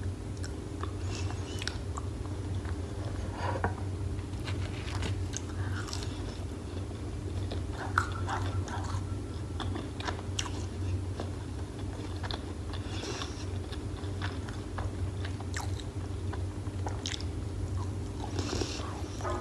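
Close-miked biting and chewing of crunchy battered fried food, with irregular crisp crunches throughout over a steady low hum.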